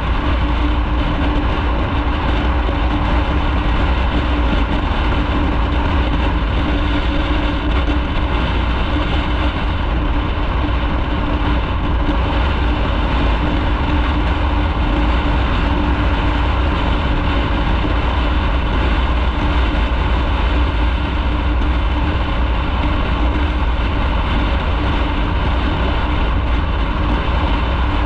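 Motorcycle riding at a steady speed: the engine holds one steady note under a heavy, unbroken low rumble, with no change in pace.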